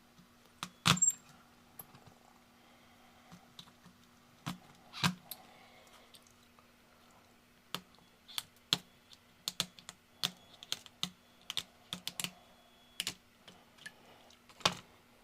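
Irregular small clicks and taps as supports are cut off a resin 3D print with an ultrasonic knife and the pieces are handled, over a steady faint hum.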